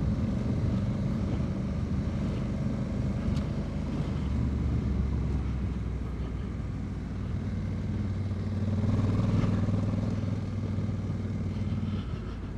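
2022 Honda Africa Twin's parallel-twin engine running as the motorcycle is ridden on a dirt track. The engine note changes about four seconds in and grows louder around nine seconds before easing off.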